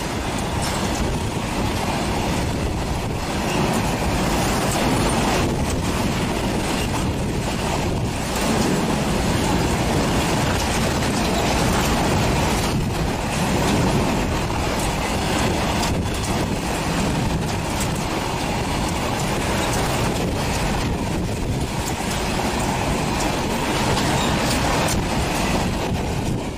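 Indian Railways goods train of BCNA covered wagons passing close by at speed: a steady, loud rumble and clatter of the wagons' wheels on the rails. The noise drops away at the very end as the last wagon goes by.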